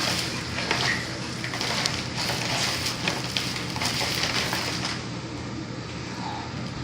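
Tap water running and splashing while a container is rinsed, with small knocks and clatter from handling it.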